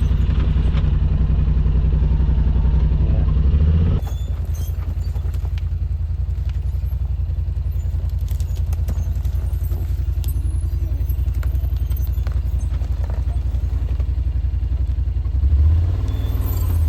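Side-by-side UTV engine running steadily as the machine drives along the trail, with scattered knocks and rattles. About four seconds in the sound abruptly gets a little quieter, and it swells louder near the end.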